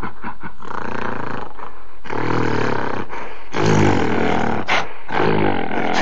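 Gorilla calling: a quick run of short grunts, then long, loud roars about two seconds in and again near four and five seconds.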